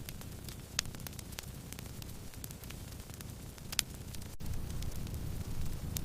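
Wood campfire burning: a steady low rumble of flame with many small crackles and two sharper pops, about one second in and near four seconds in.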